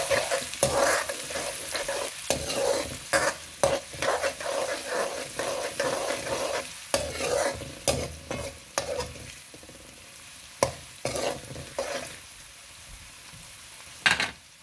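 Chopped onions and green chillies sizzling in hot oil in a pan while being stirred, the utensil scraping and knocking against the pan again and again. The stirring eases off in the last few seconds, leaving the quieter sizzle, and one sharp knock on the pan comes just before the end.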